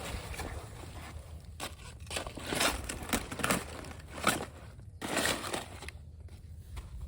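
Irregular rustling and crunching of brush and litter being disturbed, in uneven bursts, busiest through the middle.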